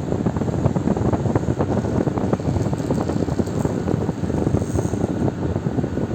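Fan running steadily: a constant low rush of air with a rapid fluttering texture.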